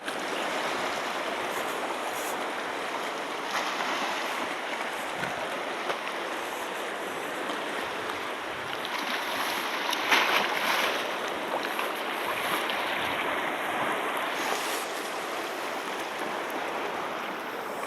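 Sea surf washing onto a beach in a steady wash of noise, with one louder wave breaking about ten seconds in.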